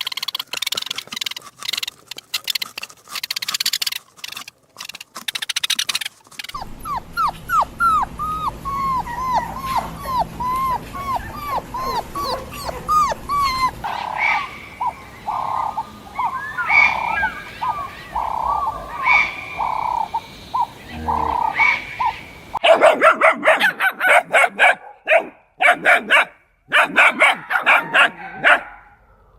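Dogs barking in quick runs, with a stretch of short, high whimpers in the middle that fall in pitch, about three a second.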